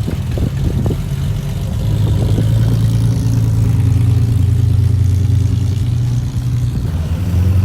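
Car engine running with a deep, steady drone, growing louder about two seconds in as the car moves off.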